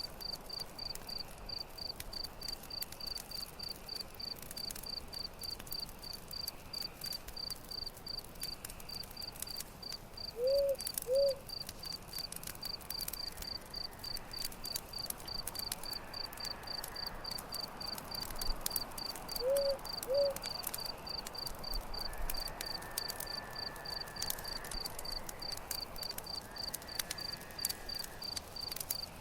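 Night forest ambience: a cricket chirps steadily and evenly, about three times a second, over scattered campfire crackles. Twice, a short low two-note call stands out as the loudest sound.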